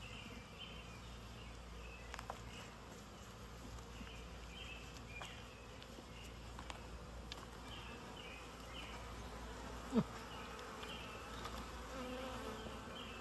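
Honeybees of a disturbed swarm buzzing in a steady low drone, with one sharp knock about ten seconds in.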